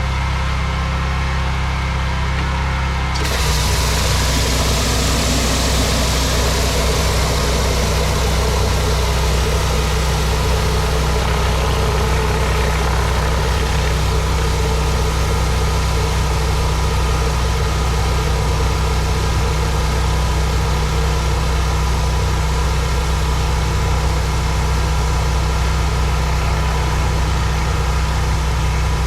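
Pressure washer's gas engine running steadily; about three seconds in the spray starts, adding a loud, steady hiss of the water jet on concrete and the engine's note settles lower under the load.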